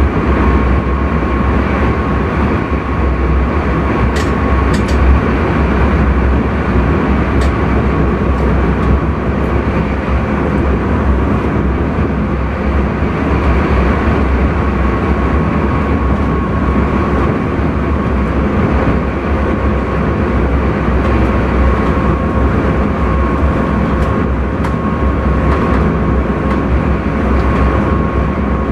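Intercity train running steadily, heard from inside the driver's cab: a constant rumble and rush with a faint steady whine, and a few short clicks about four to seven seconds in.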